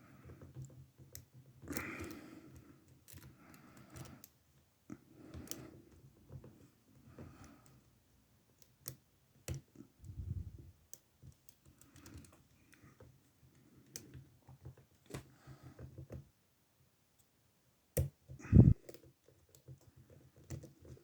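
Lock picks working inside an older Ruko oval cylinder in an ASSA brass-and-steel padlock: faint, irregular small clicks and scrapes as the pins are raked and set. A couple of louder knocks come near the end.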